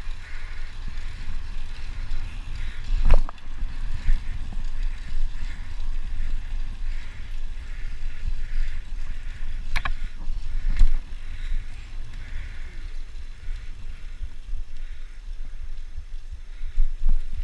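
Wind buffeting the microphone and tyre rumble while riding, with a few sharp knocks or bumps, the loudest about three seconds in and two more around ten to eleven seconds in.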